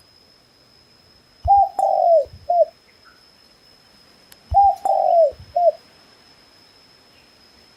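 Dove cooing: two three-note phrases about three seconds apart, each a short coo, a longer falling coo and a short coo.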